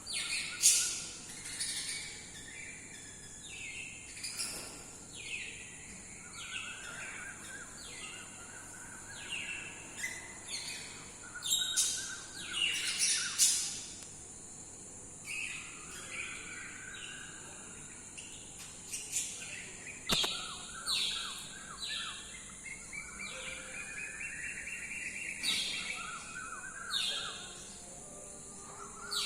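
Several birds chirping and calling: repeated sharp down-slurred chirps and quick trilled phrases, the loudest about a second in and around halfway through. A steady high-pitched drone runs underneath.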